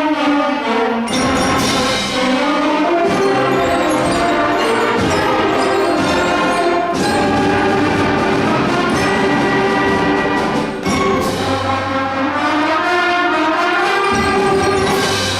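A school ensemble playing, with brass prominent: held chords and moving lines, broken by several sharp accents.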